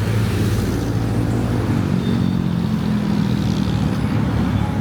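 A motor vehicle's engine running nearby with a steady low hum, rising slightly in pitch about two seconds in.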